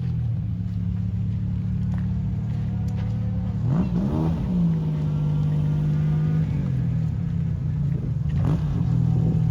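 Rally car engine idling with a steady note, blipped up sharply and back down about four seconds in, with a shorter rev blip near the end.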